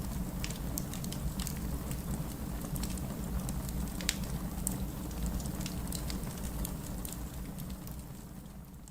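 Steady heavy rain with a deep rumble, mixed with a wood fire crackling: sharp pops scattered through it. The whole sound fades down near the end.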